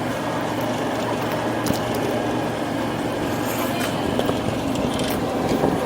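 Bumper boat's small motor running steadily close by, with a few faint knocks.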